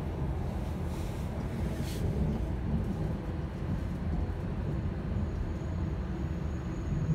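Running noise of an N700-series Shinkansen train heard from inside the passenger cabin: a steady low rumble while the train rolls along. There is one brief click about two seconds in, and a faint high steady whine comes in near the end.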